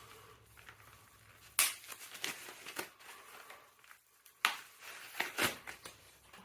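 Handling noise from working on an e-bike's cables and parts by hand: a few scattered sharp clicks and knocks with light crinkling between them, the loudest about a second and a half in and again about four and a half seconds in.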